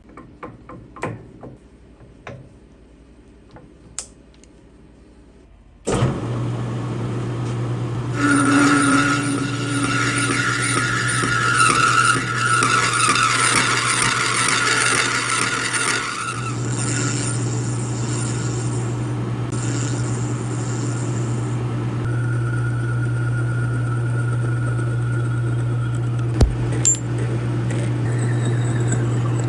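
A few light handling clicks, then about six seconds in a machine tool's motor switches on and runs with a steady low hum. From about eight to sixteen seconds a louder cutting noise with a high whine sits over it: metal being machined.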